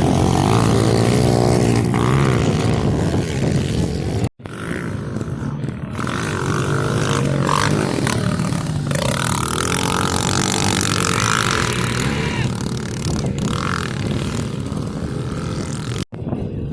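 Pit bike engines revving up and down as they race, the pitch rising and falling with each gear and throttle change. The sound cuts out abruptly twice.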